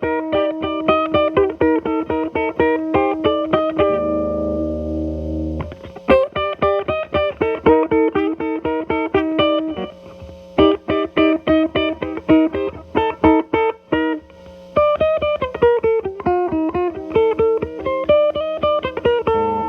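Telecaster through an early MI Audio Crunch Box distortion pedal, set to minimum gain, into a Marshall Valvestate amp's clean channel. It plays quick single-note runs, with a low chord let ring about four seconds in.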